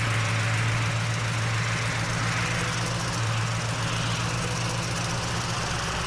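Tow truck engine sound effect running steadily: a low, even hum under a constant hiss.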